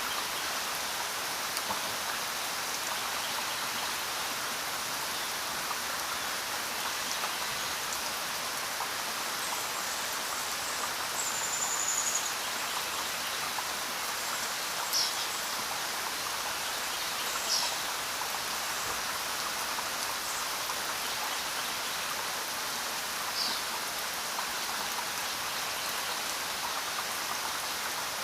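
Steady, even rainfall with no let-up. Around the middle come four or five brief, high chirps that glide downward.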